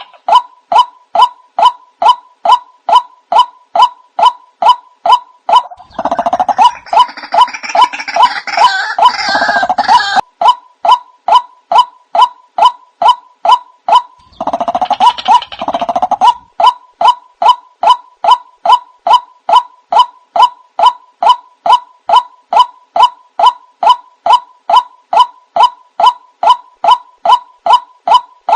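Recorded lure call of the white-breasted waterhen (ruak-ruak): a short call repeated steadily about twice a second. From about 6 to 10 seconds in, and again briefly around 15 seconds, it swells into a denser, harsher chattering chorus.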